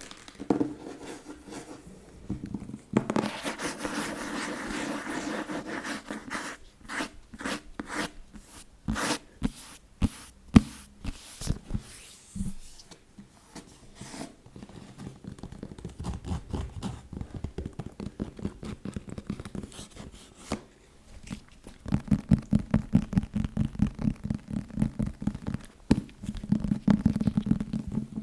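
Fast ASMR tapping and scratching on a book. About three seconds in there is a few seconds of scratching, then a run of separate sharp taps, then very quick tapping that gets denser and louder toward the end.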